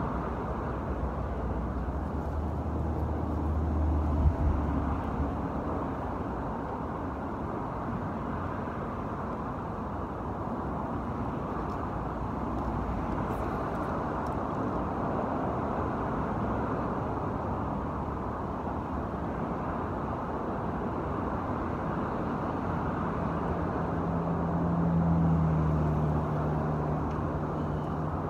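Steady hum of road traffic, with louder vehicles passing about four seconds in and again near the end, the second with a low engine drone.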